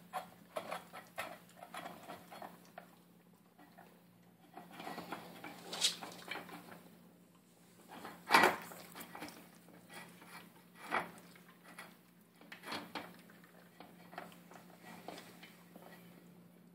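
Puppy eating from its food bowl: a run of quick clicks and knocks of chewing and the bowl being nudged, with two louder clanks of the bowl about six and eight seconds in.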